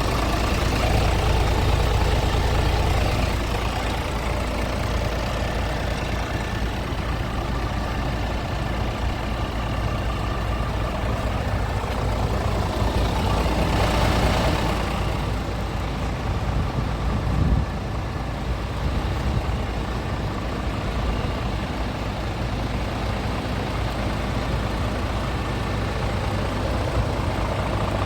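Scania R450 truck's 13-litre inline-six diesel idling steadily. A swell of hiss comes about halfway through, and there is a single short knock soon after.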